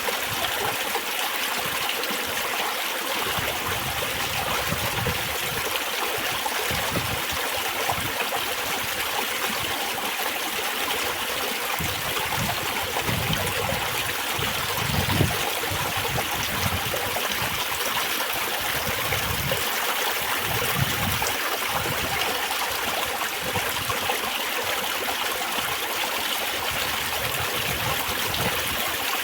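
Spring water trickling and babbling steadily, like a small stream running over stones, with an irregular low gurgle underneath.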